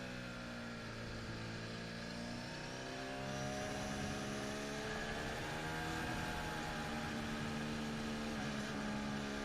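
Formula 1 car's 1.6-litre Honda V6 turbo-hybrid engine heard onboard, running at low, fairly steady revs under the safety car. Its pitch dips slightly early on and climbs a little near the end.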